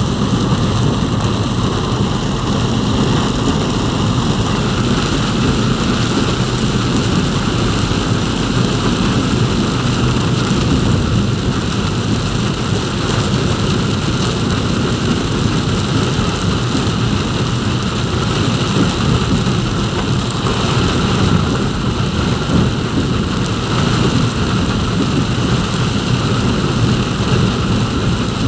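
Heavy rain pelting a moving vehicle, heard from inside the cabin: a dense, unbroken rush over a steady low rumble.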